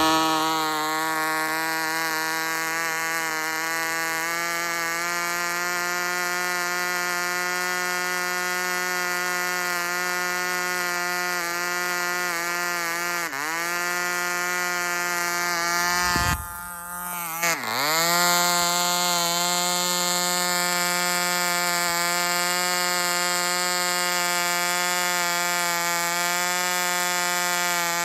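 Fox 35 Stunt two-stroke glow (nitro) model airplane engine running steadily at high speed with a high-pitched buzz. Its speed sags briefly about 13 seconds in. It sags again more deeply after a short rough break about 17 seconds in, then picks back up and runs steadily.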